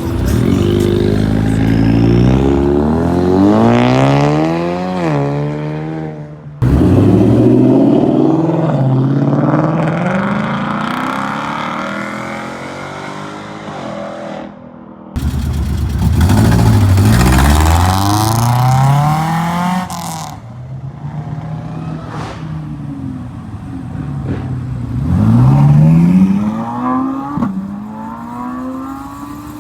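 Car engines accelerating hard, the engine note climbing and then dropping back at each gear change. The sound cuts off abruptly about six and fifteen seconds in as one pull-out gives way to the next.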